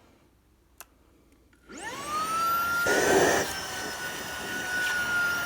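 Tineco cordless stick vacuum switched on: a faint click, then the motor spins up with a rising whine and settles into a steady high whine over rushing air, which swells louder for a moment about three seconds in.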